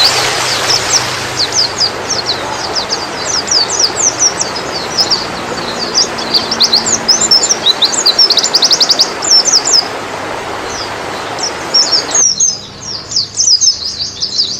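White-eye (pleci, Zosterops) singing: a rapid, unbroken run of high chirps and twitters, with a quick burst of evenly repeated notes a little past the middle. A steady hiss sits under the song and cuts off suddenly near the end.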